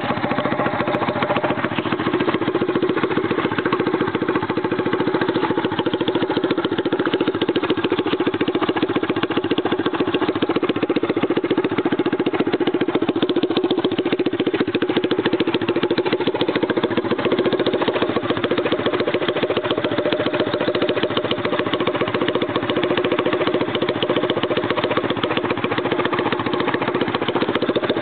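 Small engine of a Kikker mini chopper idling steadily.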